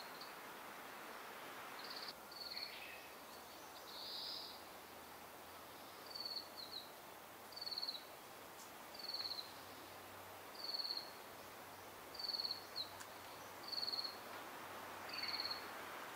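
A bird calling outdoors, repeating one short, high, slightly falling note about every second and a half, with a few other short notes before the series starts, over a faint steady background hiss.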